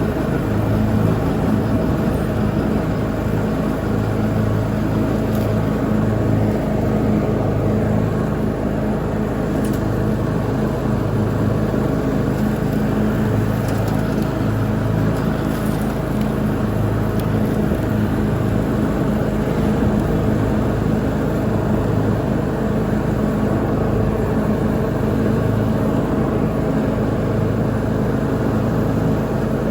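Lawn mower engine running steadily while mowing, with a low hum that swells and fades every couple of seconds.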